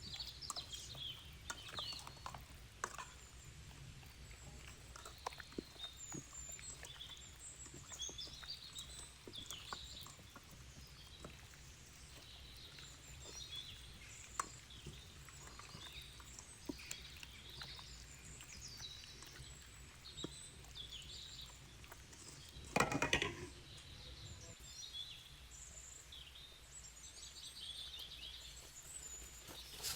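Small birds chirping repeatedly in the background, with scattered light clicks and one brief louder clatter about 23 seconds in.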